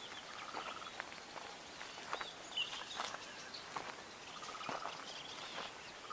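Wild birds calling: scattered short high chirps, and a brief rapid trill near the start that comes again near the end.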